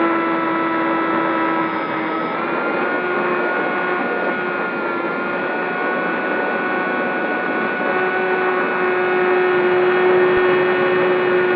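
Electric motors and propellers of a ZOHD Talon GT Rebel RC plane in flight: a steady whine at cruise throttle, stepping up slightly in pitch about two seconds in, over a rushing noise.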